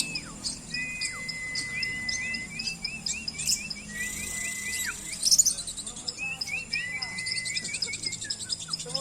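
Many caged birds chirping and calling together: rows of short, quick chirps, several long steady whistled notes that drop away at their ends, and high fast ticking above them, with a brief louder burst of chatter about five seconds in.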